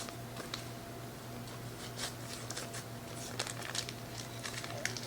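Kitchen utensil scraping mashed banana out of a container: scattered light scrapes and taps, over a steady low hum.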